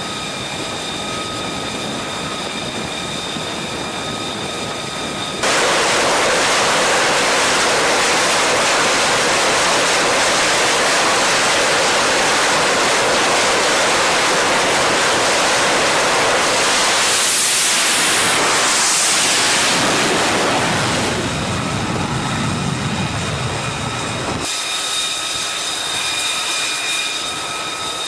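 F-35B's F135 jet engine: a steady turbine whine at idle, then an abrupt cut to a loud, even jet roar with a sweeping pass partway through, easing off before another cut back to the idling whine.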